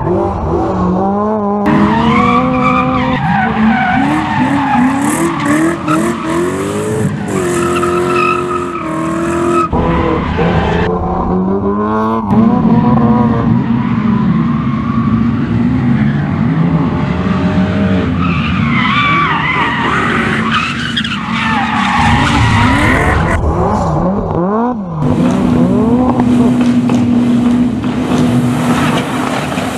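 Rally cars being driven hard on a circuit: engines revving up and dropping back through gear changes, at times held at a steady pitch, with tyres skidding. The sound changes abruptly several times, about 2, 10, 12 and 25 seconds in, as different cars take over.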